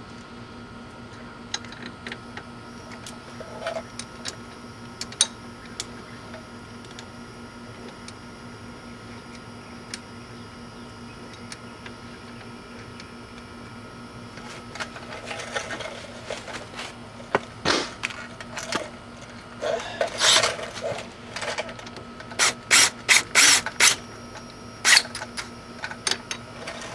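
Hand tools working on a wheel hub assembly: scattered metallic clicks, then from about halfway through a busy run of clicks and clanks, quickest near the end, like a hand ratchet running bolts in. A steady faint hum runs underneath.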